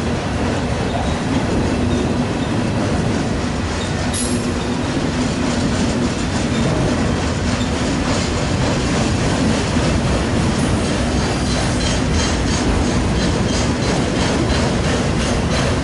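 Freight train rolling past close by: a steady rumble of steel wheels on rail, with repeated wheel clacks over the rail joints through the second half.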